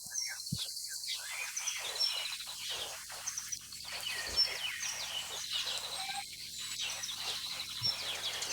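Small birds chirping, many short, quick high calls overlapping one another.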